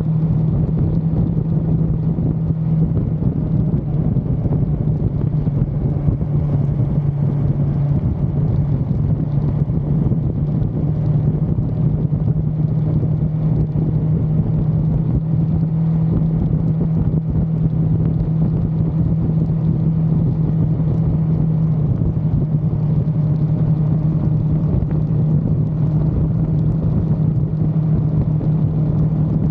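1982 Suzuki GS550L's air-cooled inline-four engine running at a steady cruising speed, its note holding nearly constant, with a heavy low rumble of wind and road noise.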